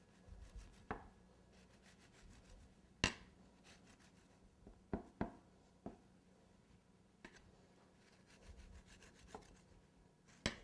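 A knife carving through cake: faint cutting and rubbing strokes with scattered sharp clicks and knocks, the loudest about three seconds in.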